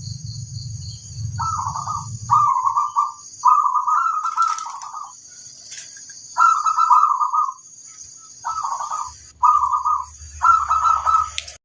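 Zebra dove (perkutut) cooing in a string of short rolling phrases, about seven of them, separated by brief pauses.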